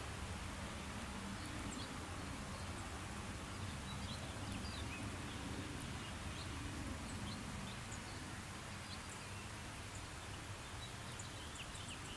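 Steady hiss of light rain, with many short, high bird chirps scattered through it.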